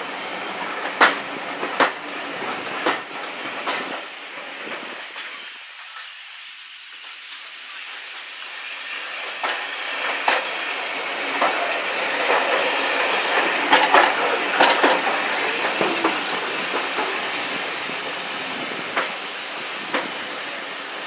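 Train running on the rails with a steady rumble and scattered sharp clicks of wheels over rail joints. The noise dies down about five seconds in, then builds again and is loudest around the middle.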